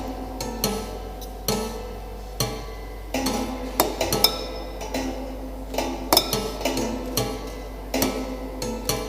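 The strings of a piano stripped of its keys and hammers, sounded by mechanical devices fitted inside it: scattered, irregular notes with a knock at the start of each, sometimes in quick clusters, each note ringing on briefly.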